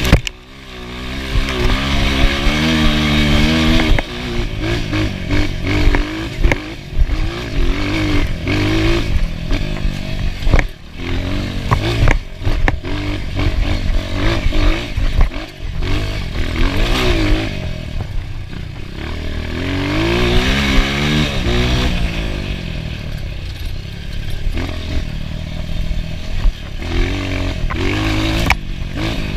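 Enduro motorcycle engine being ridden hard, revving up and dropping back again and again, with knocks and rattles mixed in.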